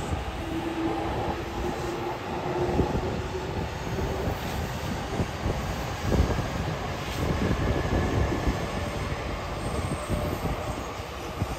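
JR Keihin-Tohoku Line E233-series electric commuter train running past on an elevated steel viaduct: a steady rumble of wheels on the rails, with a brief whining tone about a second in.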